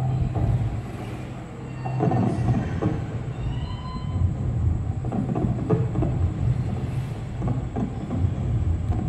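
Fireworks display: a continuous low rumble of aerial shell bursts with repeated bangs and crackles throughout.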